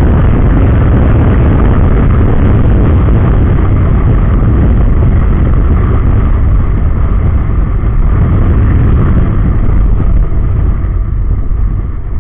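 Wind buffeting the microphone of a motorcycle rider at speed: a loud, dense low rumble that eases a little near the end as the bike slows.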